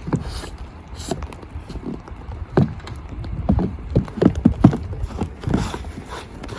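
A run of irregular low knocks and thumps, a few a second, heaviest around the middle.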